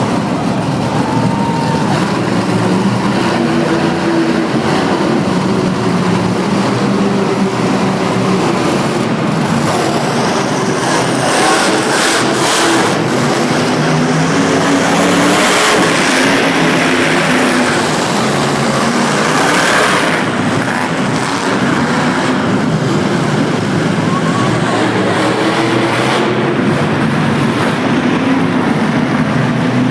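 Monster truck engine running loud and revving up and down, with several harder revs in the middle stretch.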